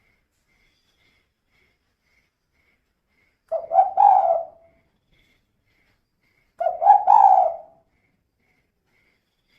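Female spotted dove cooing twice, about three seconds apart. Each call is a short note followed by a longer coo, the two-part 'kuk 2' type of call.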